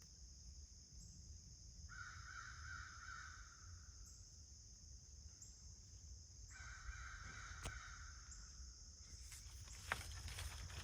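Two faint, drawn-out crow caws, each lasting over a second, over a steady high-pitched drone, with a few sharp clicks near the end.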